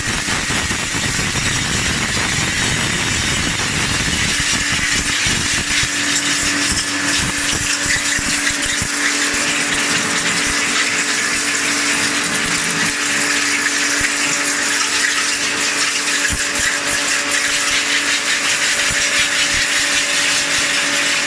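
A motor-driven machine running steadily: a constant hum with a loud hiss over it.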